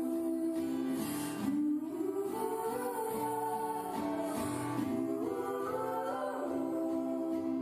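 Live acoustic song: several voices singing together in harmony over acoustic guitar.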